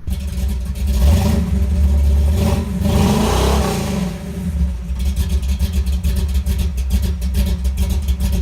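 V8 engine revving: its pitch climbs and falls away a few seconds in, then it settles into a choppy, pulsing run.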